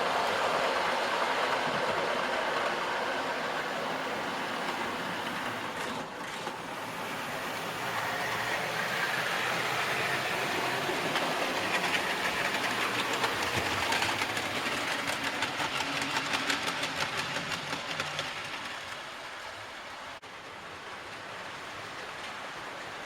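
Model train running along the track, its wheels clicking rapidly and evenly over the rail joints as it passes, then fading away.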